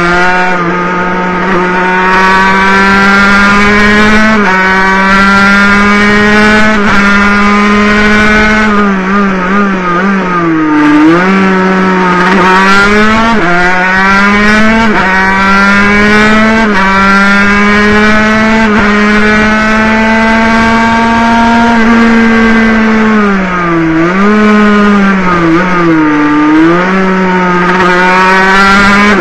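Water-cooled 50cc two-stroke racing motorcycle engine heard from on board at high revs, the pitch climbing and stepping down with each upshift. The revs drop away twice, about ten seconds in and again near the end, as the bike slows for corners, then build again.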